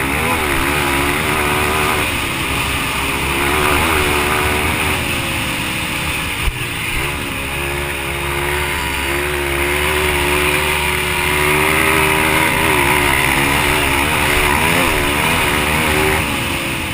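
Yamaha TT-R230 dirt bike's single-cylinder four-stroke engine revving hard, its pitch climbing and dropping again and again through throttle and gear changes. A single sharp knock sounds about six and a half seconds in.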